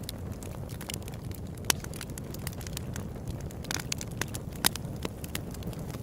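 Open-air wood campfire crackling, with many small sharp pops over a steady low rumble. Two louder snaps stand out, one just under two seconds in and one near five seconds in.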